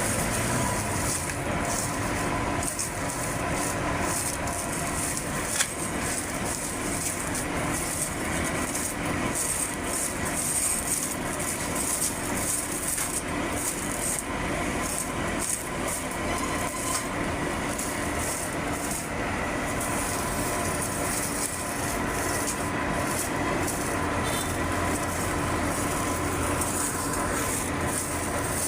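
Motorcycle engines running in a steady rattling din, with one sharp click about five and a half seconds in.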